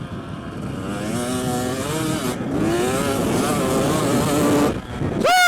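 Dirt bike engine revving on a motocross track, its pitch climbing as it accelerates, dropping back, then climbing again. It ends with a loud short tone that falls in pitch.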